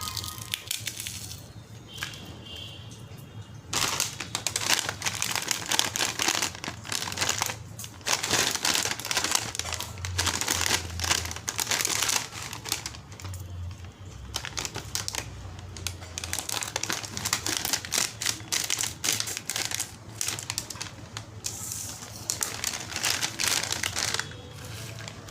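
Crax pasta crunch snacks and their packet being handled and crunched close to the microphone: dense crackling and crinkling in bursts of a few seconds with short pauses, quieter for the first few seconds.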